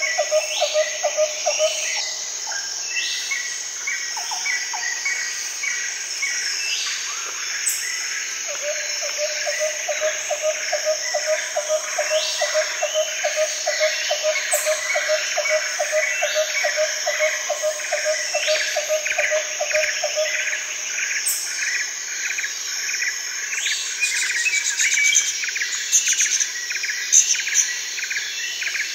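Tropical rainforest soundscape: many birds calling and chirping over a steady high insect buzz. A rising call recurs every couple of seconds, and a low, rapidly pulsing call stops early on and starts again for about twelve seconds in the middle.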